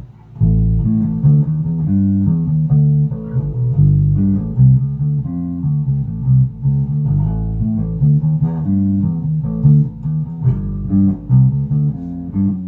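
Birdsong Fusion2 electric bass with two soapbar pickups, both pickup volumes fully up, played as a steady run of quick melodic notes starting about half a second in.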